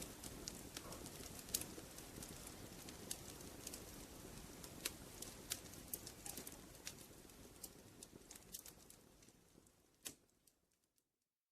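Wood fire crackling: scattered sharp pops and snaps over a low, steady rustle of flames, fading out about ten seconds in to near silence.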